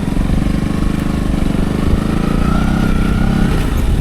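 Motorcycle engine running steadily as the bike is ridden, a fast even beat of exhaust pulses; the throttle eases a little near the end.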